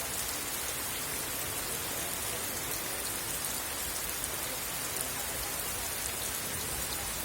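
Rain falling steadily: an even hiss with the fine patter of individual drops.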